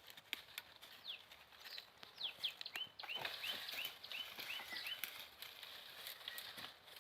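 Small birds chirping: a few quick falling chirps, then, about three seconds in, a run of about seven short repeated chirps in quick succession, with scattered clicks.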